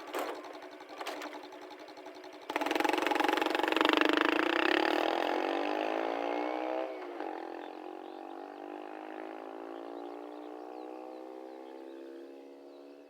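Honda Cross Cub 110's single-cylinder four-stroke engine through a Takegawa P-Shooter Cabton-style muffler, accelerating: the exhaust note jumps sharply louder about two and a half seconds in, then climbs steadily in pitch while growing fainter.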